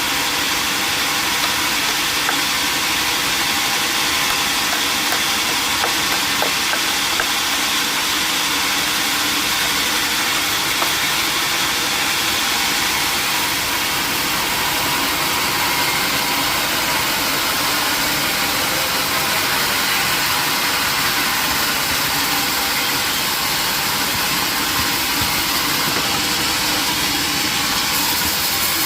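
Sawmill machinery running steadily: an even mechanical drone with a dense hiss, with no pauses or changes.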